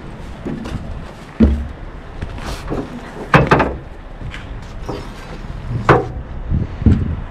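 A low steady rumble broken by about five sharp knocks and bangs: one about a second and a half in, a double bang around three and a half seconds, and more near six and seven seconds.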